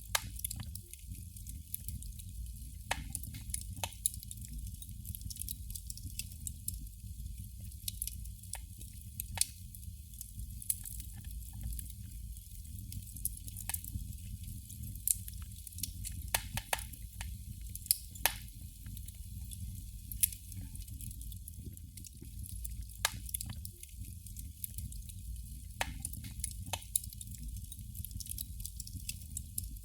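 Burning candle crackling: irregular small pops and ticks, scattered through the whole stretch, over a steady low rumble.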